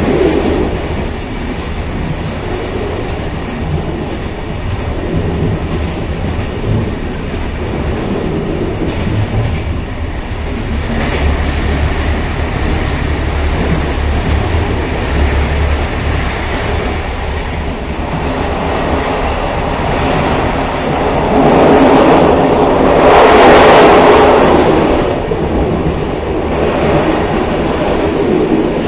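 Railcar running on the rails: a steady rumble with some clickety-clack, swelling louder and brighter about three-quarters of the way through before settling back.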